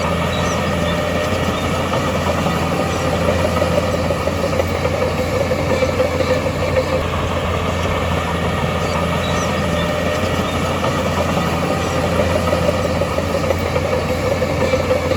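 Heavy diesel engine of earthmoving machinery, a bulldozer or dump truck, running steadily with a constant low drone.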